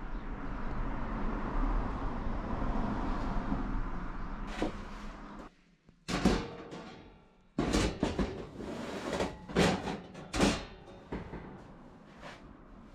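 A steady rushing noise, then after a short break several sharp knocks and clanks of hard objects being handled and set down.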